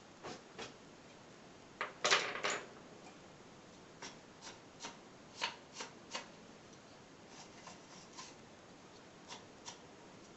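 Light clicks, taps and rustles of small objects being handled, irregular and spaced out, with the loudest cluster about two seconds in.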